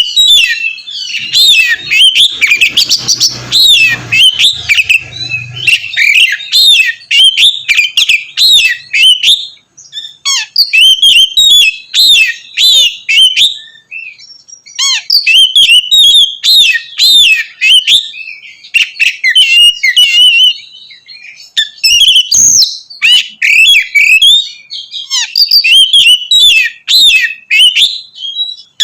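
Oriental magpie-robin (kacer) singing loudly: a long run of quick, varied whistled and chattering phrases with a few short pauses.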